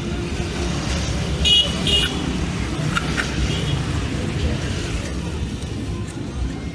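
Road vehicle running with a steady low rumble, and two short high-pitched toots about a second and a half and two seconds in.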